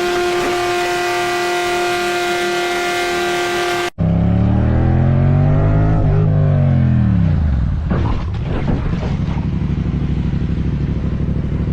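A car horn held on one steady note for about four seconds. After a sudden cut, a car engine revs, its pitch rising and then falling back about six seconds in, and it runs on at a lower, steadier pitch.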